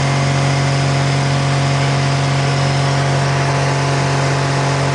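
Aircraft piston engine running at a steady speed, a constant droning hum with no rise or fall in pitch.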